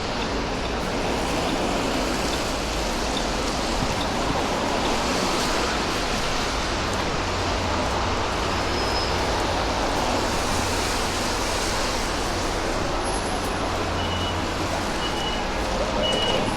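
Steady city street traffic noise, with a heavier low rumble of a passing vehicle in the middle. Near the end come four short high beeps, evenly spaced.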